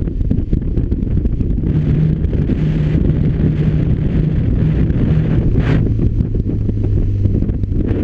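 BMW R1200RT's boxer twin engine running steadily while riding, mostly buried under heavy wind buffeting on the microphone. There is a brief hiss a little past halfway.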